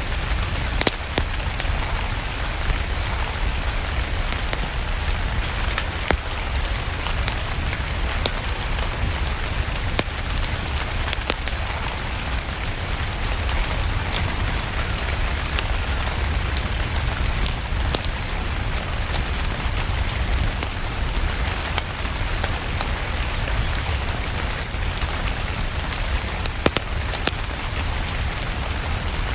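Steady rain falling, an even hiss over a low rumble, with scattered sharp clicks throughout.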